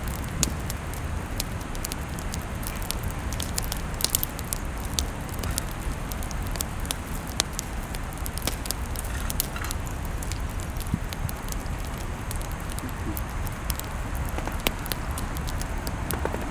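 Wood fire crackling: irregular sharp pops and snaps over a steady background rush.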